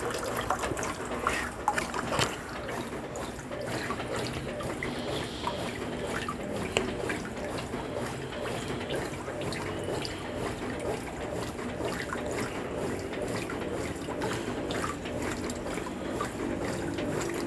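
Water trickling and splashing inside a Brastemp Ative 11 kg washing machine, with small drips and clicks and a low steady hum beneath.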